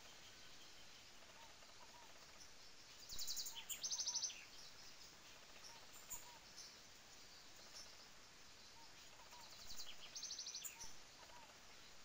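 Songbird singing two bursts of fast, high trills, one about three seconds in and one about ten seconds in, while softer short, lower bird calls repeat in between. Under them runs a faint steady rush of falling water.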